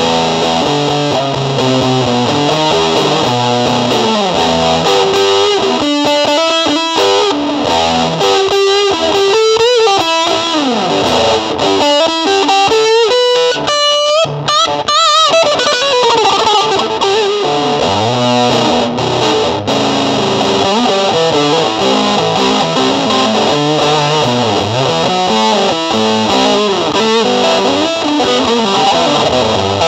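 Distorted electric guitar playing, with bent notes and quick runs of notes around a third and again around halfway through.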